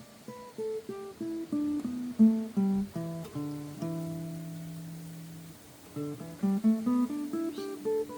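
Steel-string acoustic guitar playing single plucked notes of a scale pattern. The notes step down for the first few seconds, a low note is held for a second or two, and then the notes climb back up.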